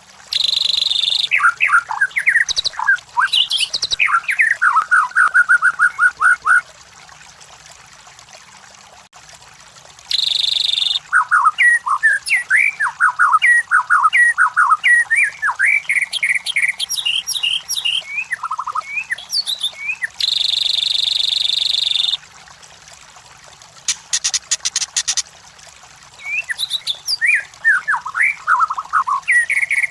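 White-rumped shama (murai batu) singing: three bursts of rapid, varied whistled phrases with pauses of a few seconds between them. Harsh buzzing notes come at the start of the first two bursts and again before the last, and a short rasping rattle opens the last burst.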